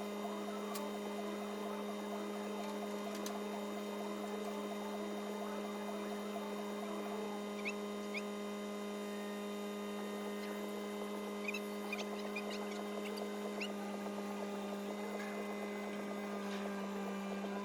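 A steady electrical or mechanical hum at one unchanging pitch, with a few short high chirps about eight seconds in and again around twelve to fourteen seconds in.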